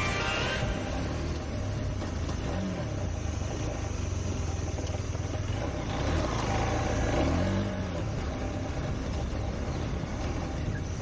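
KTM 390 Adventure's single-cylinder engine running on the move, with the revs rising and falling a couple of times, under steady wind and road noise. A music track ends in the first half second.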